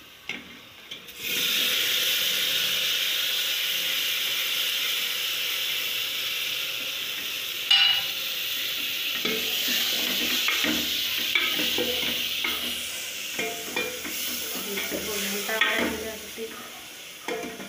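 Food frying in an aluminium pot on a gas burner, sizzling steadily from about a second in, while a metal ladle stirs it with scrapes and knocks against the pot, one sharp knock about halfway through.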